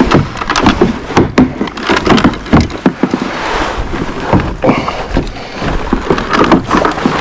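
Close handling noise in a kayak: irregular clicks, knocks and rustling as fishing tackle and gear are handled.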